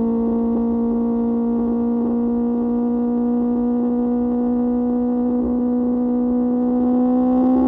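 QJ Motor SRK600's inline-four engine, breathing through an SC-Project exhaust, running at steady revs while riding, a steady high-pitched drone. The pitch begins to climb near the end as the revs rise.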